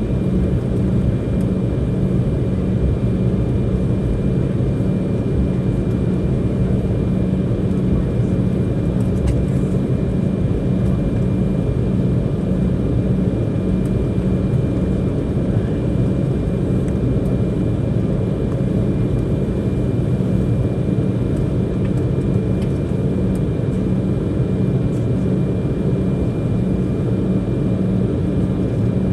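Steady low rumble and hum of an Embraer 190's GE CF34-10E turbofans at taxi idle, heard from inside the passenger cabin.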